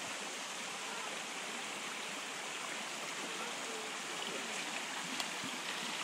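River water rushing steadily, a continuous even hiss of flowing water, with faint distant voices in the background.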